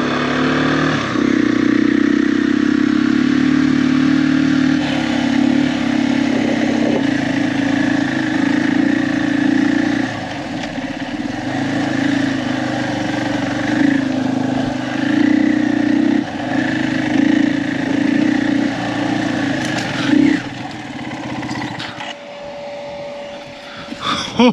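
Motorcycle engine running under way with a steady drone that dips now and then, then falling away about twenty seconds in.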